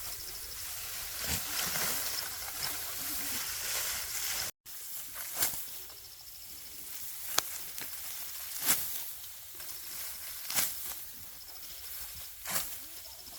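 Dry rice stalks rustling as they are cut by hand, with a sharp snap every second or two in the second half.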